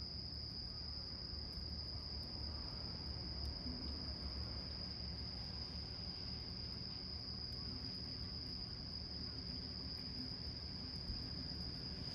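Insects, such as crickets, trilling in one unbroken high-pitched band. Beneath it there is a low rumble and a few faint ticks.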